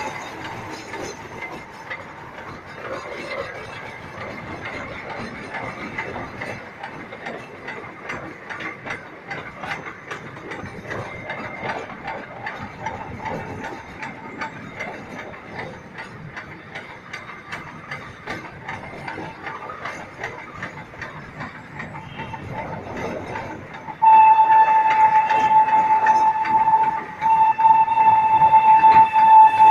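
Darjeeling Himalayan Railway toy train running, its wheels and couplings clattering and rattling. About 24 seconds in, the train's whistle starts suddenly and blows one long, loud, steady note, broken briefly once and then held on.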